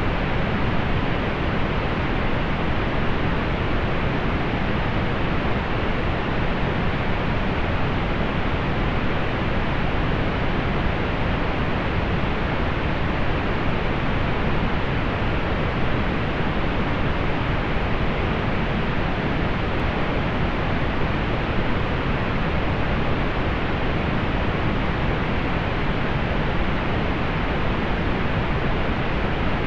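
Steady, soft pink noise: an even, unchanging hiss, weighted toward the low end and dull in the treble.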